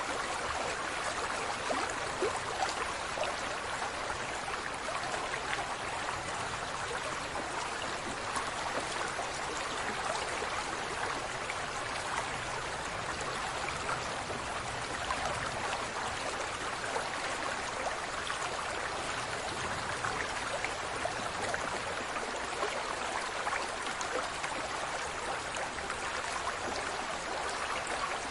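Steady noise of running water, unbroken and even.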